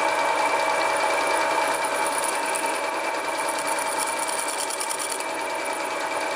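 Homemade mini lathe running steadily under its 750 W single-phase motor while drilling a 4 mm test hole: an even mechanical whir with a constant whine.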